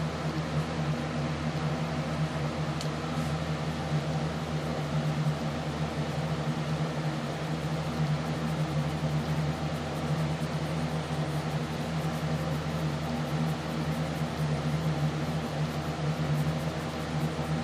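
A steady mechanical hum with a low droning tone, unchanging throughout.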